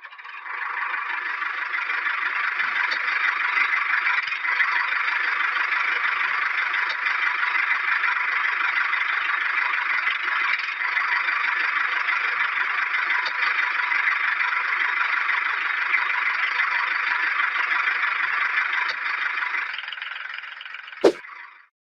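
A small electric motor running steadily with a whirring buzz, fading out near the end, then a single sharp click.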